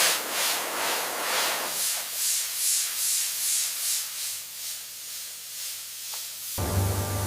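Rhythmic abrasive rubbing, about three strokes a second, over a hiss that fades away. Background music comes in near the end.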